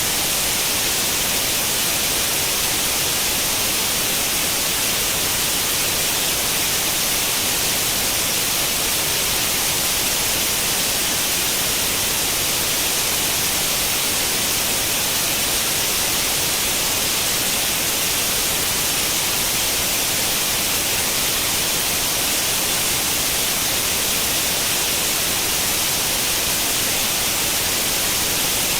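Steady white-noise hiss like the static of an untuned tube television, unchanging throughout, brighter and stronger in the high range than in the low.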